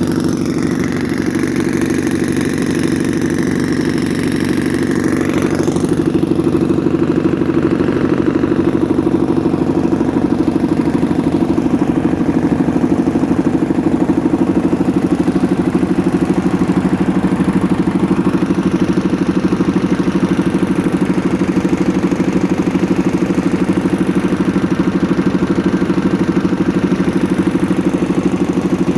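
Farmtrac tractor's diesel engine running steadily with an even beat, getting somewhat louder about six seconds in.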